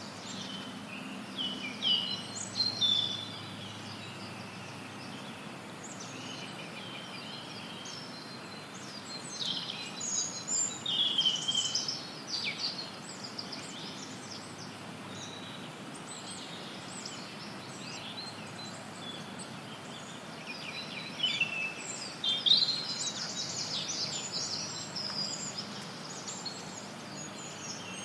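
Forest songbirds chirping and trilling in scattered bursts over a steady hiss of added white noise.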